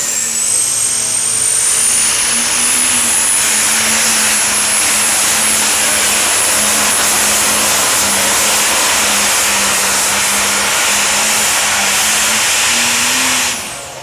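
Super stock pulling tractor's turbocharged engine at full throttle, pulling the sled down the track. A high turbo whine rises over the first two seconds and then holds steady through the loud engine noise. The sound cuts off sharply near the end as the throttle comes off.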